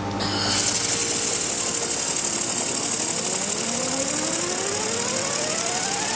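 Handheld laser welding and cutting machine running with a loud, steady rushing hiss that starts about half a second in. A thin whine rises slowly in pitch through the second half.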